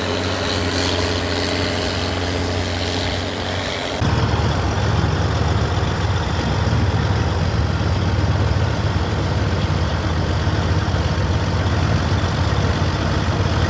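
Heavy tractor engines running steadily. About four seconds in the sound switches abruptly to a louder, rougher, deeper engine.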